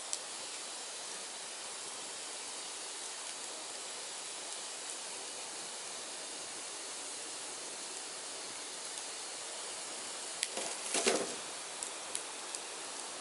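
Firewood burning: a steady hiss with scattered crackles, and a short burst of louder pops and snaps near the end.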